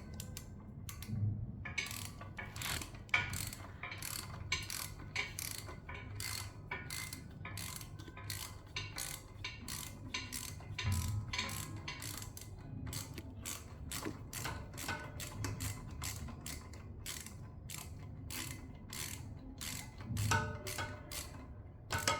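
Hand tools working on an e-bike's front hydraulic disc brake: rapid, uneven ratcheting clicks, several a second, over a low hum.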